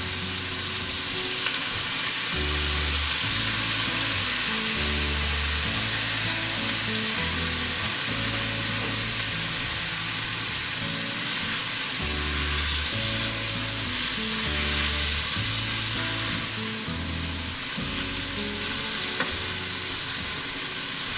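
Beef, onion and garlic sizzling steadily in a sauté pan, under background music with a held, stepping bass line.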